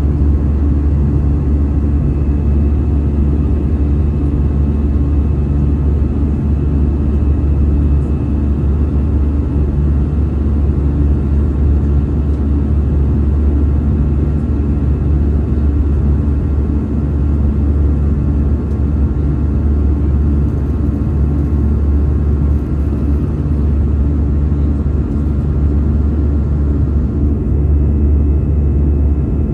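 Steady low drone of an airliner's engines heard inside the passenger cabin, with a few steady tones over the rumble.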